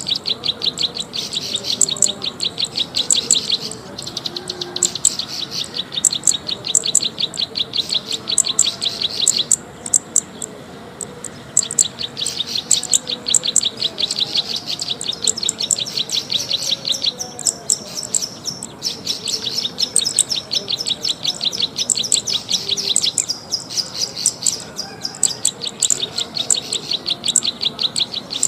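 Recorded bird lure call: a small songbird's short, high chirps repeated rapidly in long runs, with brief pauses between runs.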